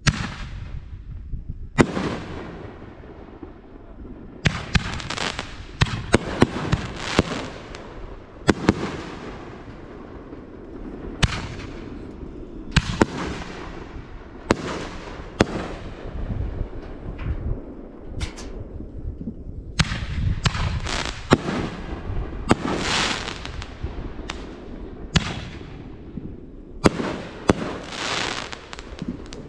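Fireworks going off: a long run of sharp bangs at uneven intervals, sometimes several in quick succession, each followed by a long fading rumble and crackle.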